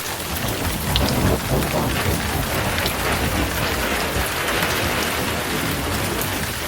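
Heavy rain pouring steadily, with scattered drop ticks and a low rumble of thunder underneath that is strongest in the first couple of seconds.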